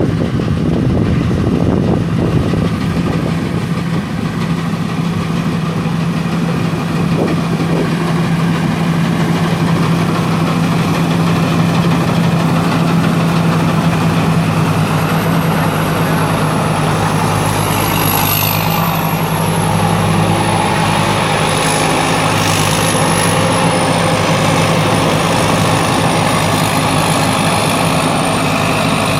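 Rice combine harvester running steadily: a constant diesel engine hum with a thin, high whine above it that wavers in pitch and grows stronger about halfway through.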